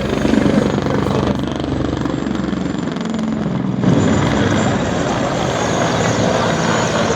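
Mil Mi-24 attack helicopter in flight, its rotor and turbines making a loud, steady drone that grows louder about four seconds in.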